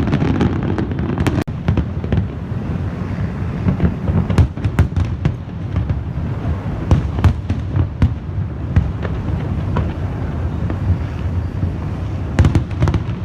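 Fireworks going off: a rapid, irregular string of sharp bangs and crackles over a continuous low rumble, with a momentary break about a second and a half in.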